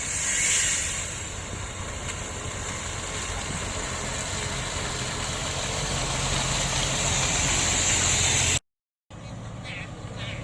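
Heavy diesel engine of earthmoving machinery running steadily, with a short burst of hiss about half a second in. The sound drops out for a moment near the end, then the engine continues.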